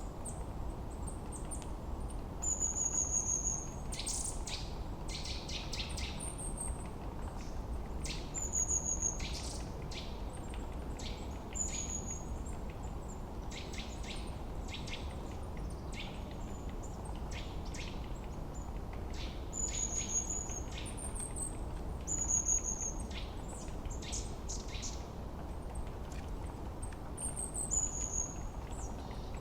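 Forest birds singing: a short, high, falling whistle repeated every few seconds, mixed with many quick sharp chips, over a steady low background noise.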